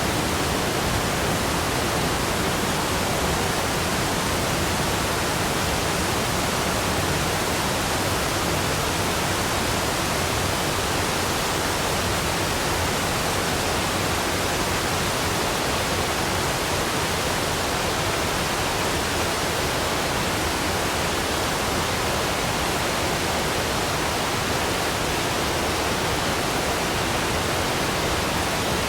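Waterfall, falling water making a loud, steady, even rush of noise.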